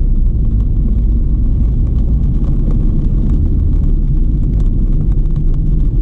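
Rain falling, heard as scattered drop ticks over a heavy, steady low rumble.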